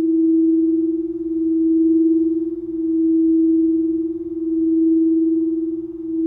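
A singing bowl sustaining one pure, steady tone that swells and fades in slow waves about every second and a half.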